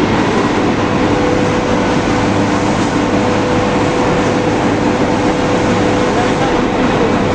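Steel rebar rolling-mill machinery running steadily: a loud, even industrial din with a constant mid-pitched tone and a low hum underneath.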